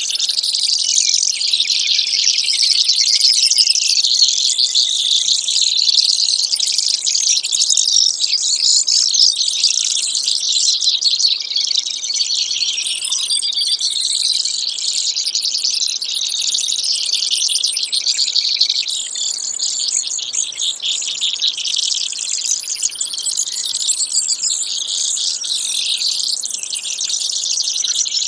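Brewer's sparrows singing: a continuous run of high-pitched trills and buzzy notes with no real pauses.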